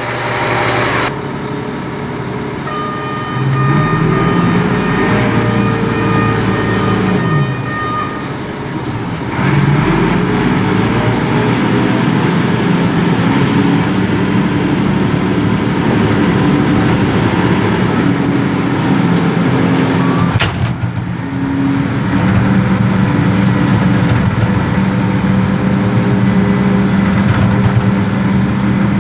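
Reach stacker's diesel engine running, revving up and down twice in the first ten seconds, then holding a steady higher speed, with a brief dip about twenty seconds in. A steady high whine sounds during the first revving.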